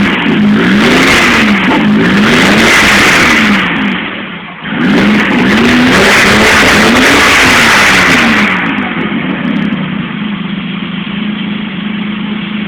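BMW 325i's straight-six engine revved hard twice, each rev held for about four seconds with a short drop between, then settling back to idle.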